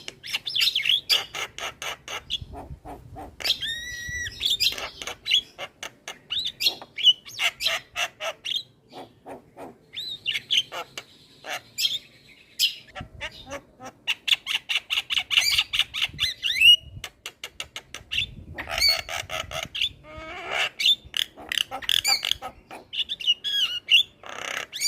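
Javan myna singing a loud, varied chattering song: fast runs of clicks and rattles, harsh squawks and a few clear whistled notes that slide upward.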